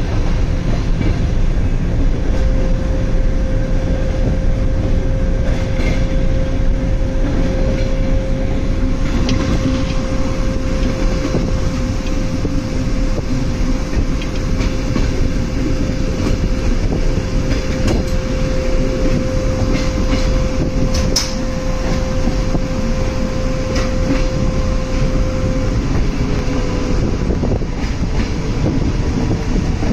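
Soviet-era electric passenger train heard from inside the carriage while running: a steady rumble of wheels on rails with a few faint clicks. A steady whining tone holds over it for most of the time and stops a few seconds before the end.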